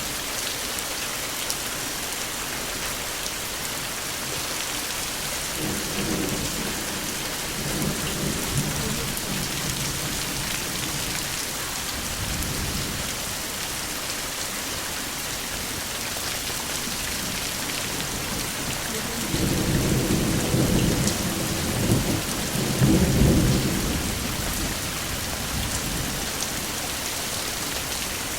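Steady rain hiss with thunder rumbling twice: a short roll about six seconds in and a longer, louder one about two-thirds of the way through.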